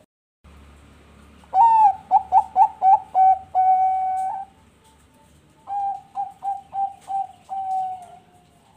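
Bangkok-line zebra dove (perkutut bangkok) cooing in two song phrases. Each phrase is a quick run of about five short staccato coos ending in a long held note, and the second phrase is softer.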